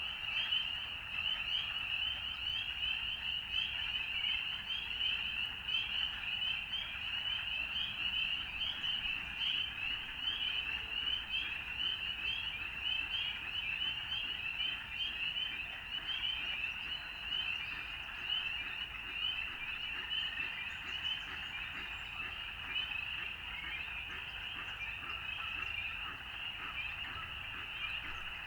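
A dense chorus of frogs, with many high-pitched calls overlapping into one steady wall of sound.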